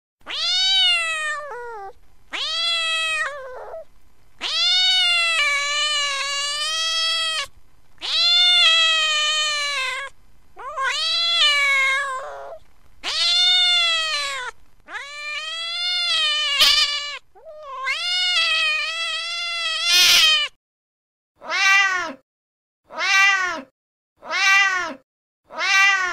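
Recorded domestic cat calls: an upset cat's long, wavering yowls, about eight in a row. Near the end come four short meows, a little over a second apart.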